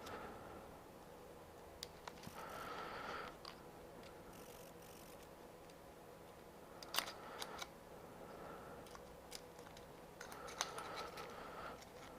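Faint clicks and rustling of hands working on small parts and fittings, with one sharper click about seven seconds in.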